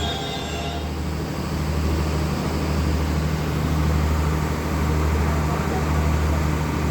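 Class M11 diesel locomotive's engine running with a steady low hum as the train stands after arriving. A last high wheel squeal fades out within the first second.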